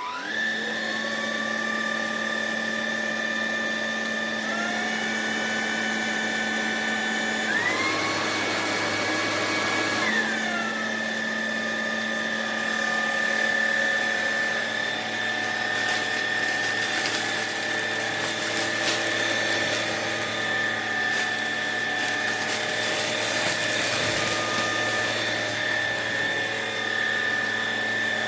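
ElecKeys K10 cordless stick vacuum's motor starting up with a rising whine, then running steadily. About seven seconds in it speeds up to a higher whine for a couple of seconds before dropping back. From about sixteen seconds on, scattered ticks and rattles sound over the steady motor.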